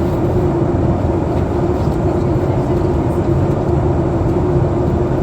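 Steady cabin noise inside a Boeing 737 MAX 8 airliner in descent: a low rumble of airflow and engines with a steady hum running through it.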